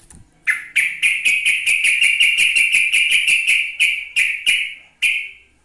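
Yellow-vented bulbul (trucukan) singing a long, rapid run of repeated notes, about four a second. The run starts about half a second in and breaks off shortly before the end.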